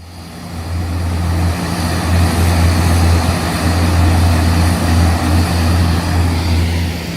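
Aircraft engines running steadily on the ground, a deep steady hum under a wide rushing noise that builds over the first second or two and eases a little near the end.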